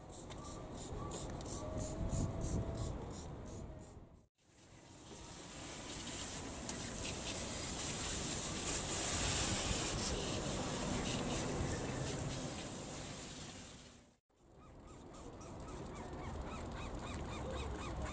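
Steady hiss of a spray or water jet on the car, lasting about ten seconds between two cuts. It is framed by shorter clips of rhythmic ticking and, near the end, repeated short squeaky honk-like sounds.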